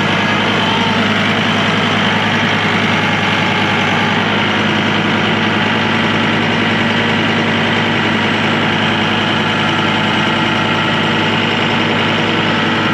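Tractor engine running steadily and loud, heard from the driver's seat.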